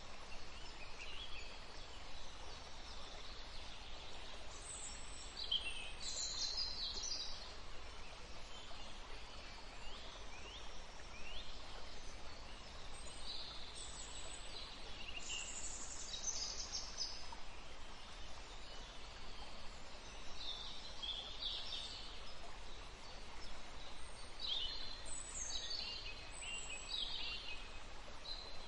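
Birds chirping in short clusters every few seconds over a steady background hiss.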